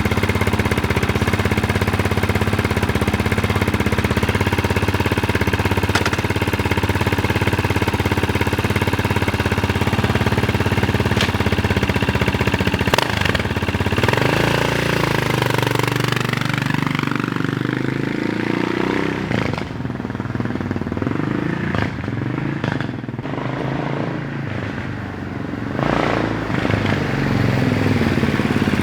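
Yamaha TT600R's single-cylinder four-stroke engine running with the dB killer out of the exhaust, a steady beat. About halfway through, its pitch drops and wavers, then it picks up again near the end.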